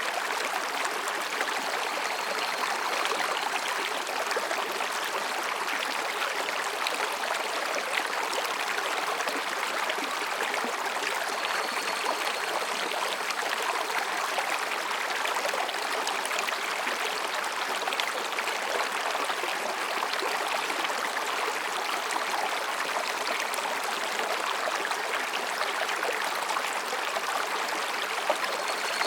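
Mountain stream running between rocks: a steady, even babbling rush of water.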